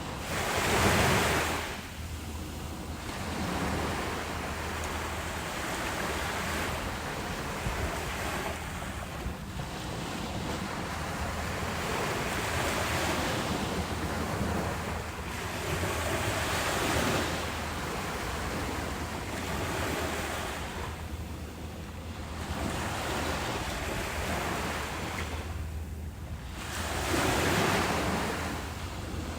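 Ocean waves breaking and washing on a beach, the surf swelling and easing every few seconds, with a louder break about a second in and another near the end. A steady low wind rumble on the microphone runs underneath.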